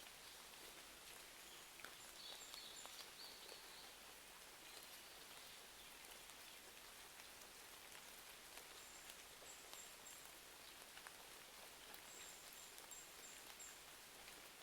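Faint, steady rain hiss with scattered small ticks of drops or crackles. A few short runs of high chirps come in about two seconds in, again around nine seconds, and near the end.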